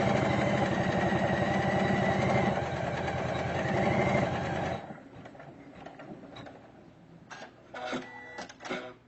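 Usha Janome Memory Craft computerized embroidery machine stitching with a rapid, even needle beat that stops suddenly about five seconds in. A few short clicks follow near the end as the machine trims a jump stitch.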